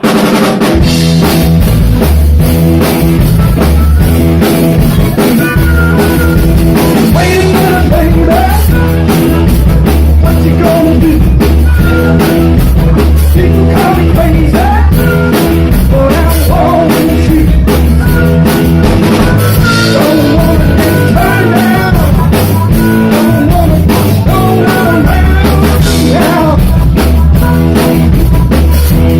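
Live rock band playing loudly: drum kit, bass and electric guitar, with a wavering melodic line riding over the top.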